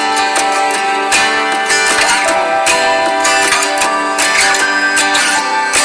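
Background music of strummed guitar chords with a steady rhythm.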